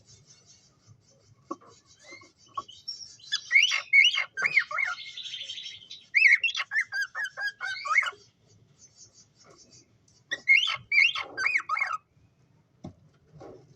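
Cockatiels chirping in three quick bouts of short rising and falling calls, with quiet gaps between.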